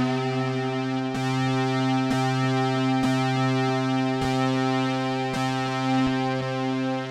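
Behringer Poly D analog synthesizer playing sustained chords over a steady low bass note. A new note or chord strikes about once a second, starting bright and losing its top end as it holds.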